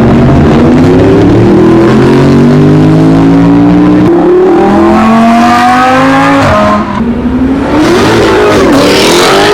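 A car engine accelerating hard, its pitch climbing steadily, with a sudden drop about two-thirds of the way through, like an upshift, then revving up and down near the end.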